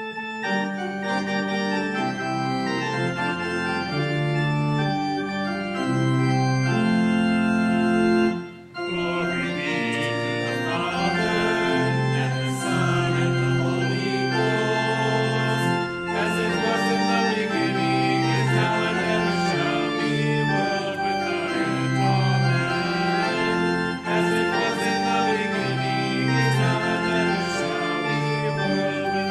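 Organ playing held chords in a slow, hymn-like piece, with a brief break about eight seconds in.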